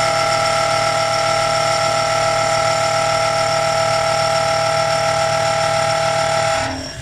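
A machine tool running steadily under power, a constant high whine over a hissing noise, that stops abruptly near the end.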